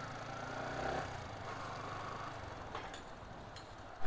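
Faint engine running steadily in the background, fading about a second in, then low background noise with a few light clicks near the end.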